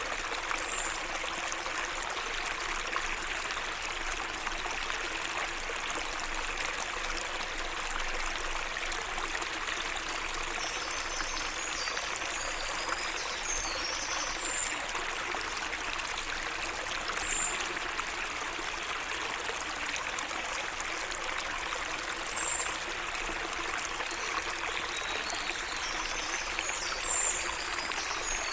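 Small garden stream trickling and splashing steadily, with short high-pitched bird chirps now and then.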